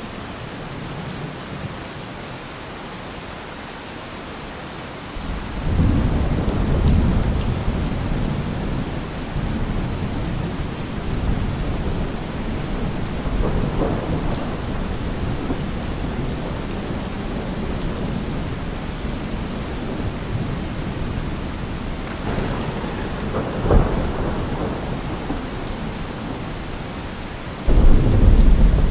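Steady rain with rolling thunder: a long deep rumble begins about five seconds in, a sharp crack comes near the middle of the second half, and a sudden loud close thunderclap breaks near the end.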